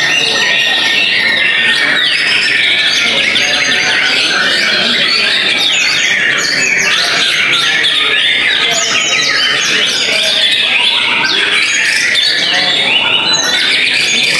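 Many white-rumped shamas (murai batu) singing at once: a dense, unbroken tangle of fast, overlapping whistles, trills and chatter.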